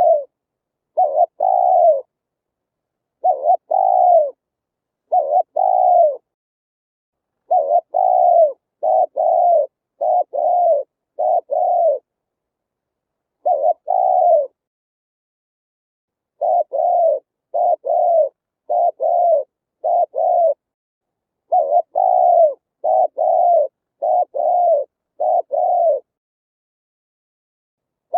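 Spotted dove cooing: its song phrase of short, falling coo notes given in clusters of two to four, repeated over and over with brief silent gaps. The recording is a lure call for attracting wild doves.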